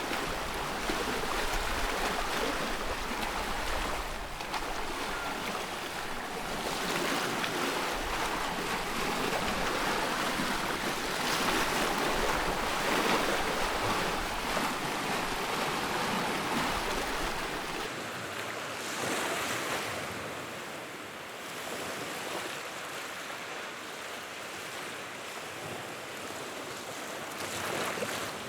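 Wood fire burning in a fireplace: a steady rushing hiss of flames that swells and eases every few seconds, with crackling. A low rumble under it drops away about two-thirds of the way through.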